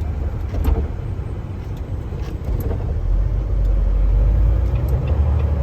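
Steady low road and engine rumble of a vehicle driving on a snow-covered highway, heard from inside the cab, growing louder about three seconds in.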